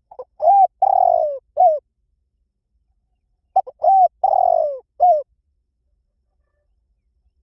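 Spotted dove cooing: two phrases about three seconds apart, each a short note, an arched coo, a longer falling coo and a final falling coo. It is the male's territorial song, used here as a lure call.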